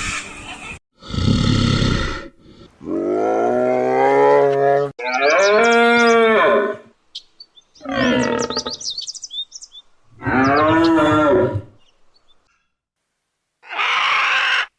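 A series of about six separate drawn-out animal calls, each one to two seconds long, several with a pitch that rises and then falls, cut one after another with short silent gaps.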